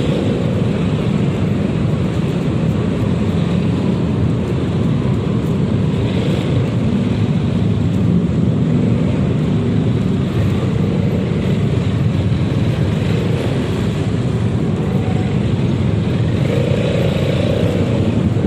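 Steady rushing wind and road noise while riding a Yamaha XMAX 300 scooter, with its single-cylinder engine on the stock exhaust running underneath at a constant speed.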